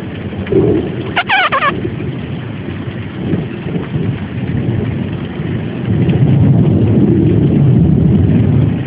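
Heavy rain pouring steadily during a thunderstorm, with a deep thunder rumble swelling up about six seconds in. About a second in, a brief wavering, warbling call cuts through the rain.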